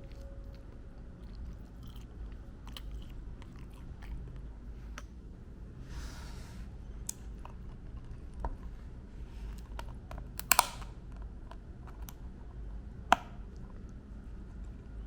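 Chewing and crunching on crispy fried chicken, with scattered small clicks and two sharp louder clicks about ten and thirteen seconds in.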